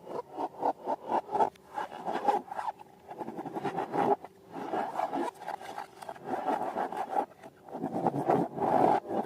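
Slime being worked by hand: a rapid, uneven run of sticky crackling and squelching clicks as it is pressed and stretched.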